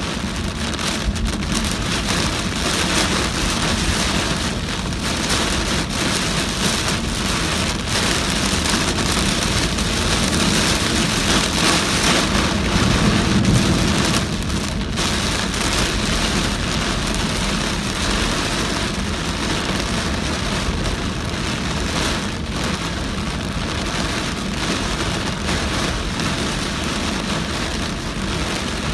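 Heavy rain pelting a moving car on a flooded road, with tyre and road noise beneath it. The sound swells for a few seconds around the middle, then settles back.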